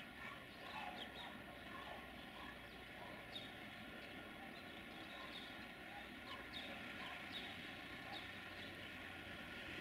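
Small birds chirping, short falling chirps repeated irregularly, over a faint steady hum and background rumble.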